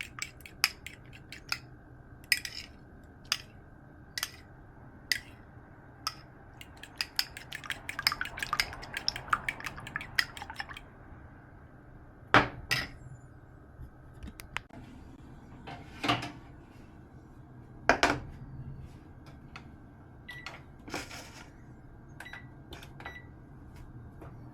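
Kitchen utensils and dishes clinking: a quick run of light clinks against a bowl a few seconds in, then scattered clinks and a few louder knocks as dishes and utensils are handled.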